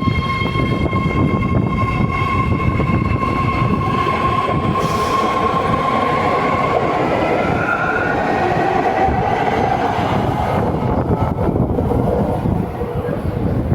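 BART train pulling out of the station, wheels rumbling on the rails under a high, steady electric whine that fades about halfway through while the rumble carries on.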